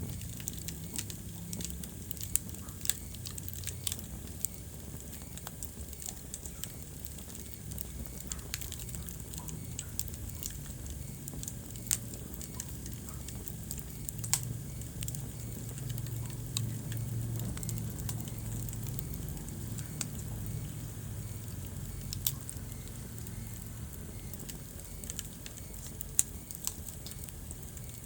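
Wood fire burning in a fireplace and crackling, with sharp pops coming at irregular moments over a low, steady rumble of the flames.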